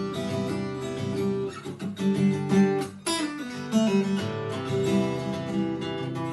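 Acoustic guitar played with the fingers, plucked notes ringing over a repeating bass pattern, with a short break and a downward-sliding note about halfway through.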